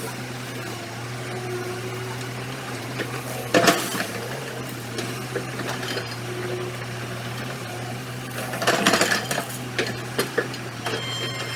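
Excavator engine running steadily at a low hum, with two bursts of metal clanking and rattling, about a third of the way in and again about two-thirds through, followed by a few sharp knocks.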